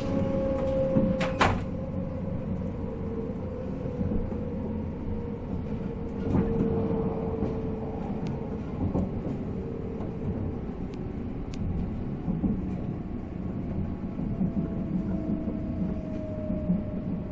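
485 series electric train heard from on board, running with its MT54 traction motors and gears whining over the wheel and track rumble. The whine slowly falls in pitch as the train slows. There is one sharp click about a second in.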